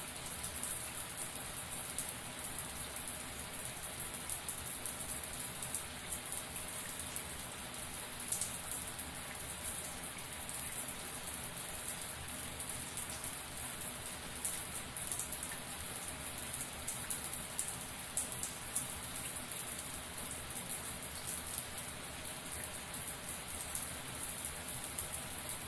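Shower running steadily: a constant hiss of water spray with a fine patter of drops.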